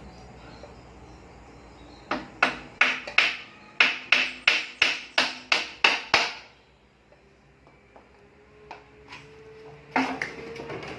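A quick run of about a dozen hammer blows, roughly three a second, in the middle of the stretch, followed by a single knock near the end.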